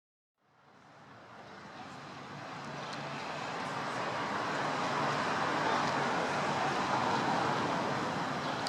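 Steady rush of outdoor traffic noise with a faint low hum, fading in from silence over the first few seconds and then holding steady.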